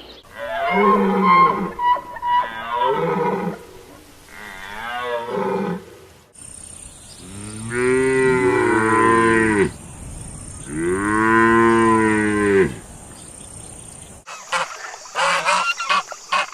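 Cow mooing: two long moos in the middle. Before them come three shorter animal calls, and near the end a run of quick goose honks begins.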